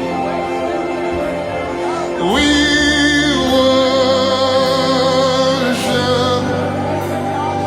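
Gospel worship music: a voice singing long, held notes with vibrato over sustained chords and a steady bass.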